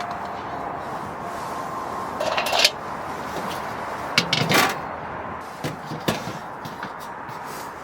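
A few knocks, clicks and a short scrape of camping gear being handled, over a steady background hiss. The loudest knocks come in a quick cluster about four seconds in.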